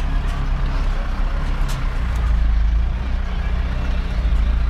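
A vehicle engine running steadily with a deep, low rumble, with a couple of faint knocks over it.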